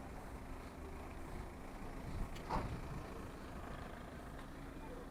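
A vehicle engine idling with a steady low rumble, and one brief higher sound about two and a half seconds in.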